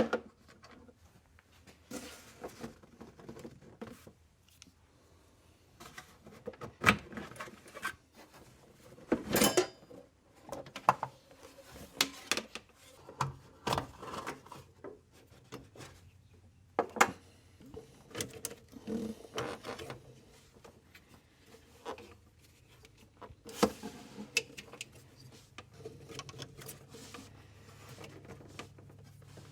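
Scattered clicks, clanks and rubbing of hand tools and fittings being worked on by hand while hoses and lines are disconnected from an air-cooled Porsche 911 engine, in irregular bursts with short pauses between them.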